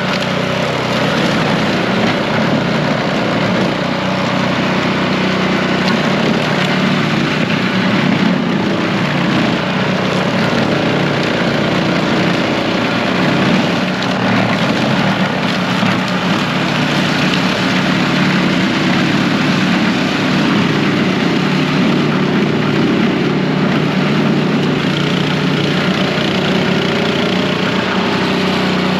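Plow truck engine running steadily under a constant hiss.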